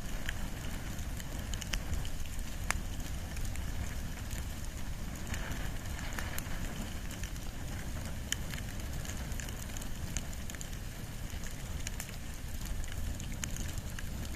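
Wood and bamboo fire burning, with frequent sharp crackles and pops scattered over a low steady rumble.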